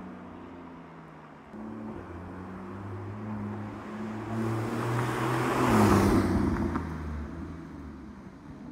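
Porsche 981 Cayman flat-six running through a SOUL Performance valved exhaust at a steady moderate engine speed. It steps up in level about a second and a half in, swells to its loudest about six seconds in, then fades away.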